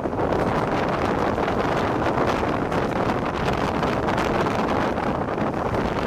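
Wind rushing over the microphone together with the steady running rumble of an express train's passenger coach at high speed, heard from an open door.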